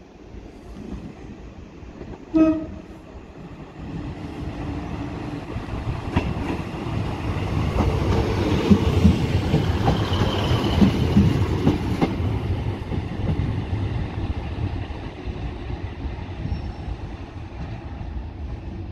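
A Transport for Wales diesel multiple unit gives a short horn toot about two seconds in. Its engine and wheels then grow louder as it rolls past close by, with a few clicks of wheels over rail joints, and ease off as it draws away.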